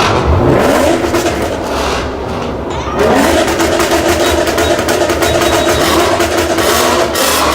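Car engine revved hard twice: it climbs quickly near the start, eases off, then climbs again about three seconds in and is held at high revs for about four seconds.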